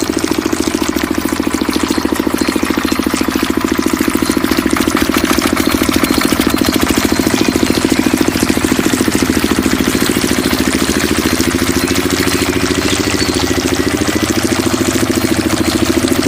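Small diesel engine driving a water pump, running steadily with a rapid, even firing beat; its pitch wavers a little past the middle.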